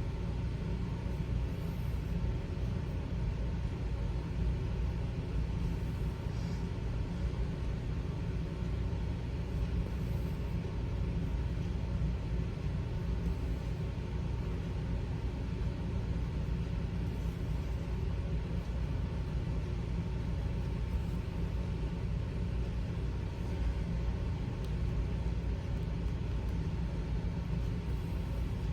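Steady low rumble with a faint, even hum over it, unchanging throughout.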